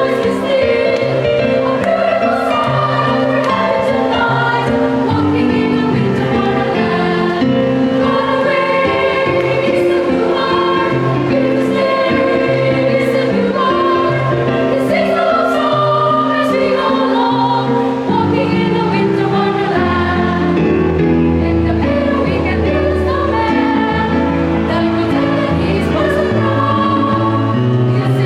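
Children's choir singing a Christmas carol in sustained, moving parts over an accompaniment with a low bass line, which grows heavier about two-thirds of the way through.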